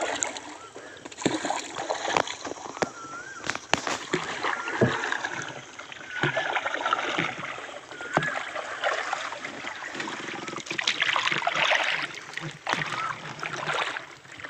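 Small wooden rowing boat on water, with splashing and many sharp knocks against the hull, and faint voices in the background.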